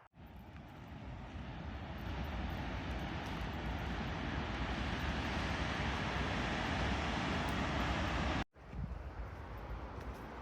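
Waterfall's rushing water, a steady rush of noise that swells over the first two seconds, cuts off suddenly about eight seconds in, then comes back quieter.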